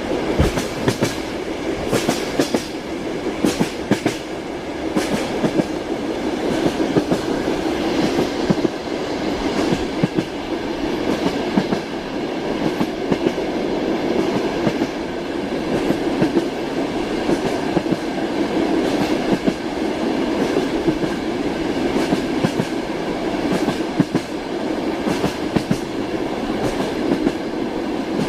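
Train wheels clicking over rail joints under a steady rumble, a rolling rhythm of clickety-clack that keeps on without a break.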